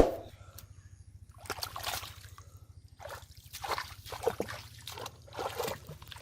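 Pond water splashing and sloshing in several short bursts as hands work through shallow muddy water, after a sharp thump at the very start.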